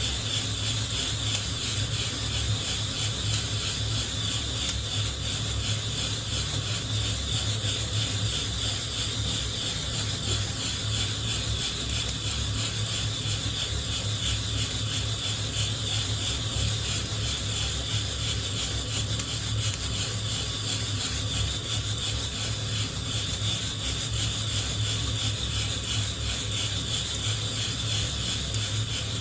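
Coffee beans rattling and scraping against a hand-held wire-mesh roasting net as it is shaken over the heat, a continuous rapid rattle with a steady low hum beneath.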